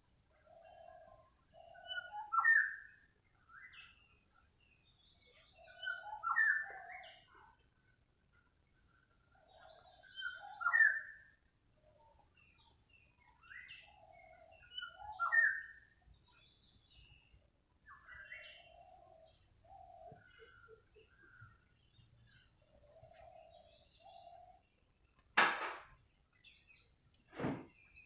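Birds calling and chirping: a phrase of rising calls repeats about every four seconds, with short high chirps in between. Near the end come two sharp clicks, about two seconds apart.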